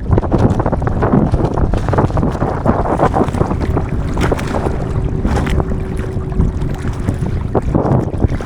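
Strong wind blowing across the microphone of a small sailboat underway, with water rushing and splashing along the hull.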